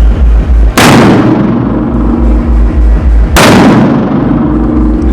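Two loud firecracker bangs, about two and a half seconds apart, each dying away over about a second, over background music with a heavy, pulsing bass beat.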